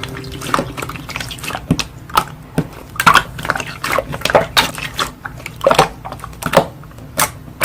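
Slime being squeezed and poked by hand, making irregular wet, sticky pops and clicks about twice a second.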